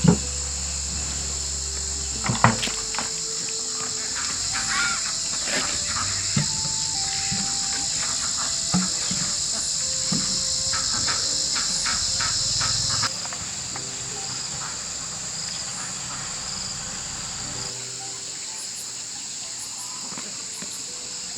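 Steady high-pitched chirring of insects, with scattered light knocks and clicks in the first half. The chirring drops noticeably about thirteen seconds in.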